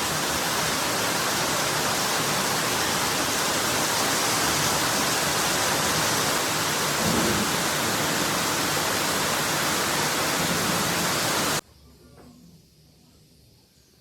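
Steady loud rushing of water, even across all pitches, with a few dull low rumbles; it cuts off suddenly near the end, leaving only faint ticks.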